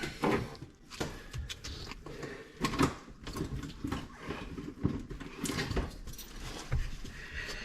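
Scattered light knocks and clicks over soft rustling, irregular and a second or two apart.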